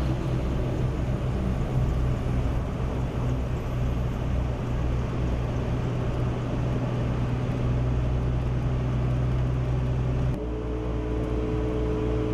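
Steady low drone of a running vehicle engine with road or wind noise. About ten seconds in, the sound changes abruptly to a slightly different drone with two steady tones.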